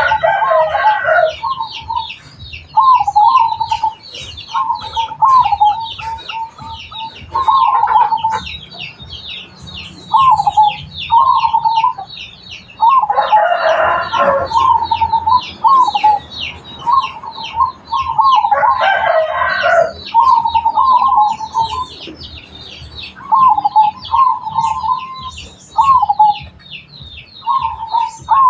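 Zebra doves (perkutut) cooing in short repeated phrases, one after another, over a steady high twittering of small birds. A louder rooster crow breaks in three times: at the start, about halfway through and about two-thirds through.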